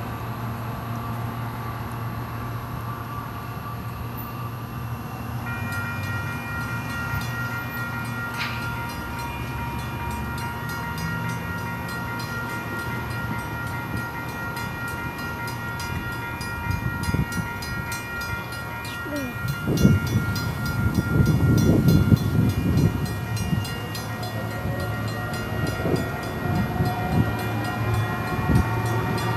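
A train going by, under a steady low hum. About five seconds in, a held chord of high ringing tones starts. From about twenty seconds in, the wheels clatter loudly on the track.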